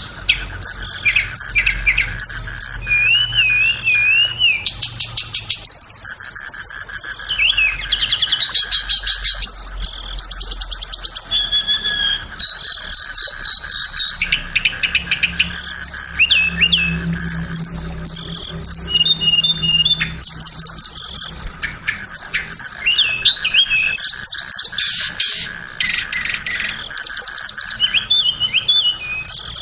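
Tledekan birds singing: a dense, continuous run of rapid high-pitched chips, fast trills and short twittering phrases, one after another, over a steady faint hum.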